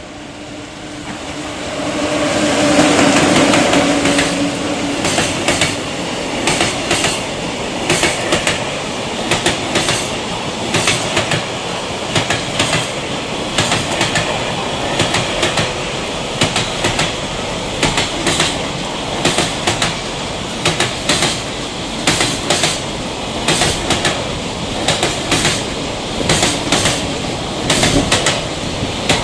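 An electric locomotive hauls a container freight train past at speed. It hums loudly as the locomotive goes by, about two to four seconds in. Then the container wagons run past in a steady rumble, with a regular clickety-clack from the wheels.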